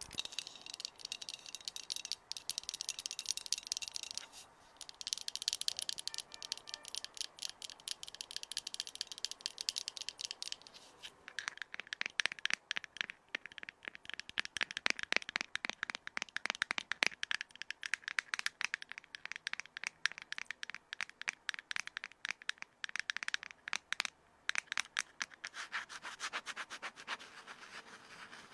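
Stones rubbed and scraped together close to the microphone: a dense, unbroken run of gritty scratches and small clicks, grainier in the first ten seconds and turning into quicker, sharper clicking after about eleven seconds.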